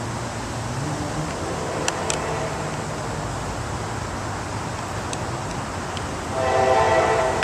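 Diesel freight locomotive running steadily as it approaches, sounding its horn: a fainter chord about a second and a half in, then a louder blast near the end. A few sharp clicks come through in between.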